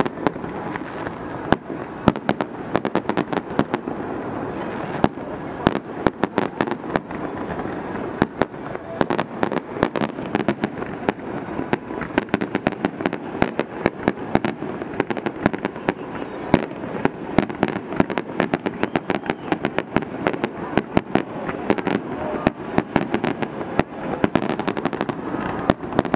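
Aerial fireworks going off in a dense, continuous barrage: rapid sharp bangs and crackles, many per second, over a steady background din.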